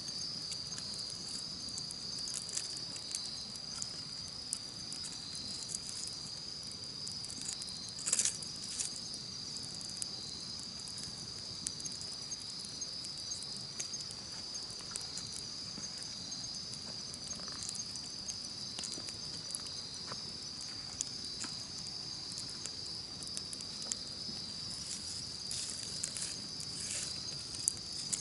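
Wood fire crackling with scattered small pops and one louder crackle about eight seconds in, over a steady high-pitched trill of insects.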